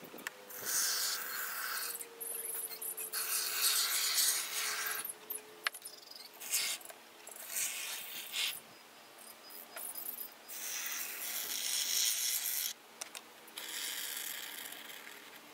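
Repeated scraping or rubbing strokes, each lasting about half a second to two seconds, separated by short pauses.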